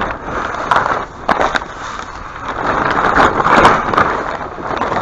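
A large folded sheet being handled and unfolded, rustling and crinkling, with a few sharp crackles about a second in and a louder stretch of rustling in the second half.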